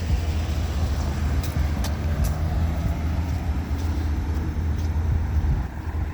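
Motor vehicle engine and street traffic: a steady low rumble with a few faint ticks.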